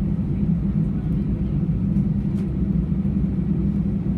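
Airbus A320 cabin noise from a window seat: a steady, even low rumble of the engines and the aircraft moving.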